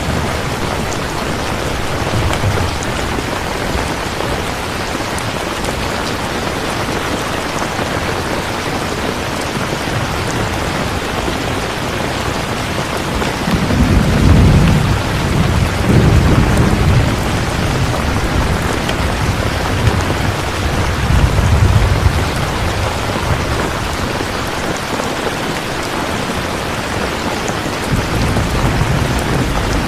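Steady rain falling, with low rumbles of thunder rolling in about halfway through and again near the end.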